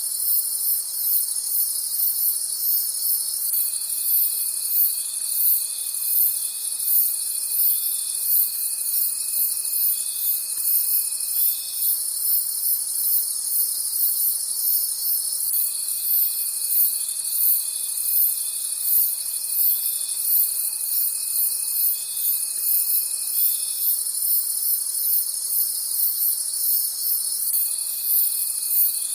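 A night chorus of crickets chirping: a dense, high pulsing chirp with a steady trill beneath it. A lower continuous trill comes and goes in long bouts of several seconds, with short pauses between them.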